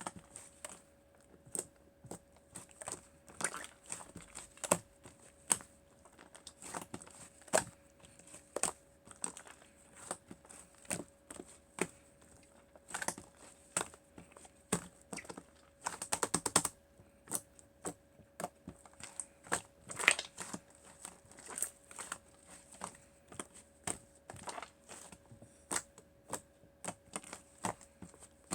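Sticky clicks and crackles of a slime-and-clay mix being pressed and worked by hand, about once or twice a second, with a quick run of crackles about halfway through. A faint steady hum sits underneath.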